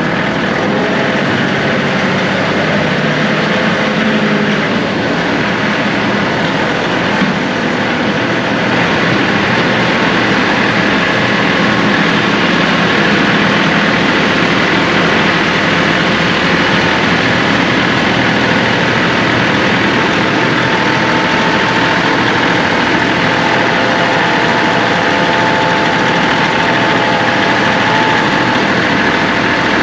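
John Deere 2038R compact tractor's diesel engine running steadily, a little louder from about nine seconds in.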